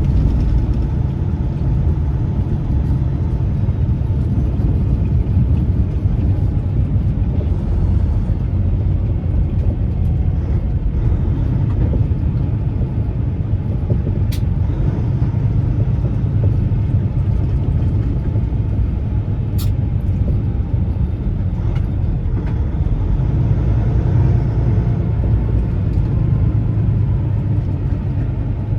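Peterbilt semi truck driving: a steady low rumble of diesel engine and road noise. Two brief sharp clicks come through, about halfway in and again some five seconds later.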